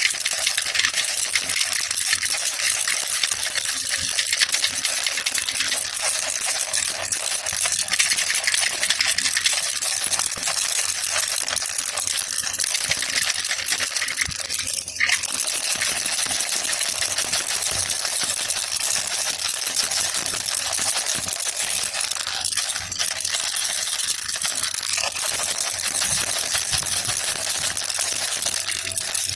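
Baby rattle (jhunjhuna) shaken without pause: a dense, fast rattling of small loose pieces, easing briefly about halfway through.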